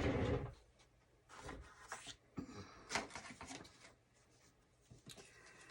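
Paper being handled at a craft table: a knock right at the start, then scattered short rustles and light clicks.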